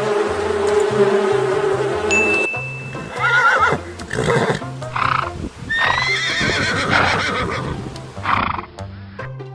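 A steady insect-like buzz for the first two and a half seconds, then a horse whinnying and neighing in several separate calls, one with a quavering pitch, over background music with a repeating low bass line.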